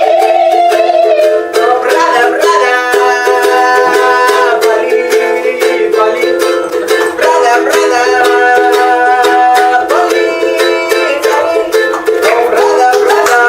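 Accordion music: held reedy chords and a melody that shift every second or two, with frequent short clicks.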